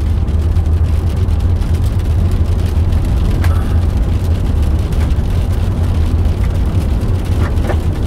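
Steady low rumble of a car driving on a rough farm road, heard from inside the cabin, with road and tyre noise and a few faint clicks.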